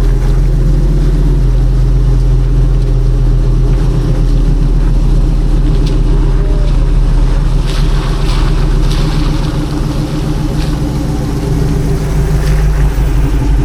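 1955 Chevrolet First Series 3100 pickup's engine running steadily at a low, even pitch as the truck cruises, easing off slightly about two-thirds of the way through.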